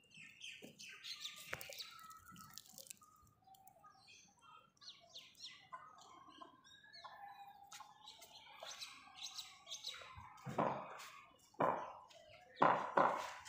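Birds chirping faintly, short high calls scattered throughout, with a few louder knocks near the end.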